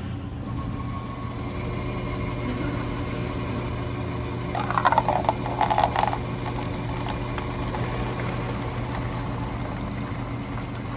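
Semi truck's diesel engine idling, a steady low hum, with a brief louder burst of noise about halfway through.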